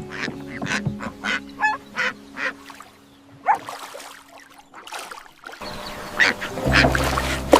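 A run of short, sharp waterfowl quacks and honks in the first couple of seconds, over background music that swells with low bass notes near the end.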